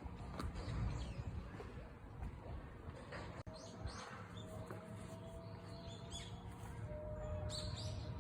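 Birds chirping now and then over a low, steady outdoor rumble. About five seconds in, a faint, steady distant siren tone begins and carries on.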